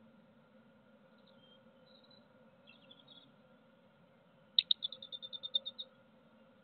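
A songbird's trill: a quick run of about a dozen high notes lasting a little over a second, loud against faint chirps heard earlier.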